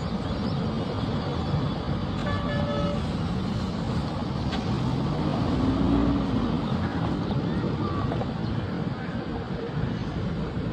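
Road traffic: motor vehicles running past, one passing close and loudest about six seconds in, with a short horn toot about two and a half seconds in.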